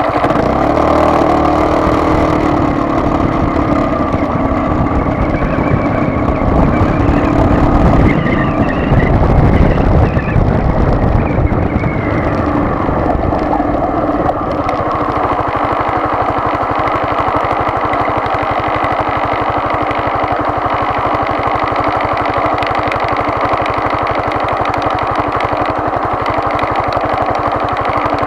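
A vehicle engine running while under way. Its pitch shifts over roughly the first dozen seconds, then holds steady.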